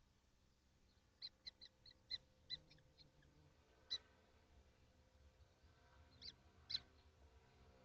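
Common kestrels in a nest box giving short, sharp, high-pitched calls: a quick run of about eight in the first few seconds, a single one near the middle, and two more near the end.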